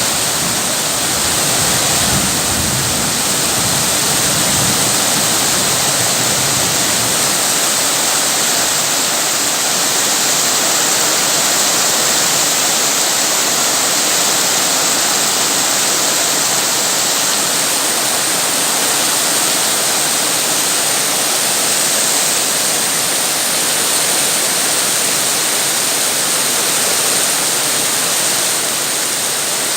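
Steady, heavy rain falling as a dense, even hiss.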